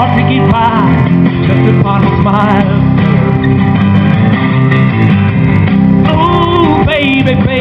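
Live amplified music from a duo: guitar-led backing playing on between sung lines, with a wavering melody line over it.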